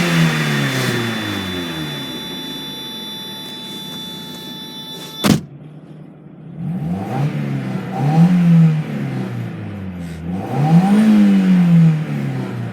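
1994 Mazda MX-5 Miata's 1.8-litre twin-cam four-cylinder revved through its exhaust: a rev at the start dying back toward idle, a sharp click about five seconds in, then three quick blips of the throttle, each rising and falling, the last one the longest.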